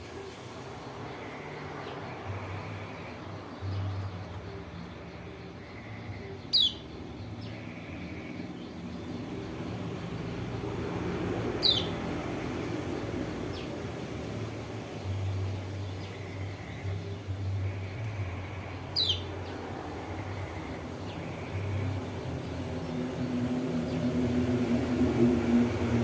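Kecial kuning (white-eye) giving three short, sharp calls, each a quick high downward sweep, several seconds apart. A steady low rumble like distant traffic runs under them and grows louder near the end.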